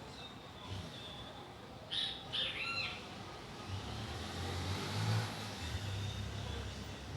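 A bird calling: a few short chirps with arching pitch about two seconds in. In the second half, a low rumble builds under them.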